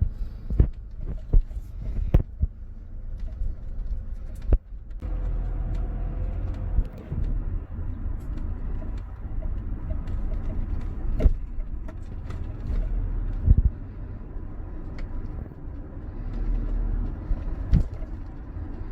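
Low steady rumble of a vehicle on the move, with frequent sharp knocks and clicks scattered through it.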